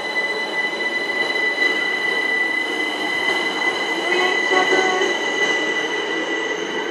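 Train running past, with steady high-pitched whining tones held over the rumble of the wheels.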